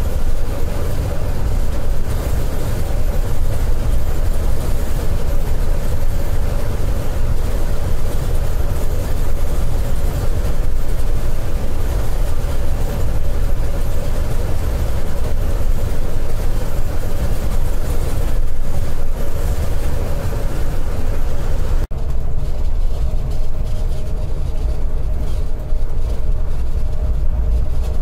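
Steady engine and road rumble of a Scania K410iB coach at highway speed, with a constant hum over it. About two-thirds of the way through the sound changes suddenly, the hiss dropping away and the low rumble growing.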